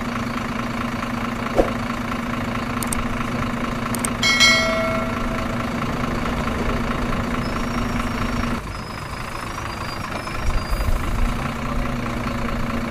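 An engine running steadily at idle, with a single knock about a second and a half in and a short metallic ring about four seconds in; the running sound changes and drops a little about eight and a half seconds in.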